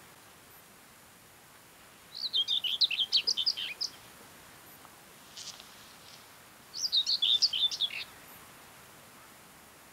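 Common whitethroat singing: two short, fast, jumbled warbling phrases of about one to two seconds each, the first about two seconds in and the second near seven seconds, with a pause between them.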